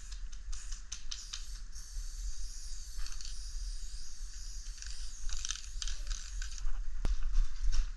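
Aerosol spray paint can in use: a steady hiss of spray broken by many rapid clicks and rattles, with one sharp click near the end.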